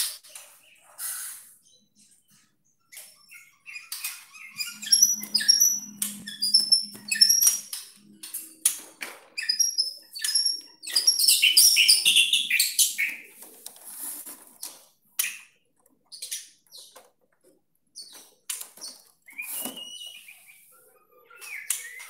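Caged birds calling in short high chirps and squawks, mixed with scattered clicks and rattles, busiest in the first half.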